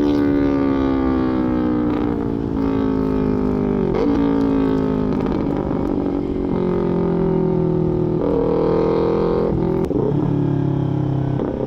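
Small parallel-twin sport motorcycle engine with a full aftermarket exhaust running on the road. Its note slides slowly down in pitch, then changes pitch abruptly several times, as with throttle and gear changes.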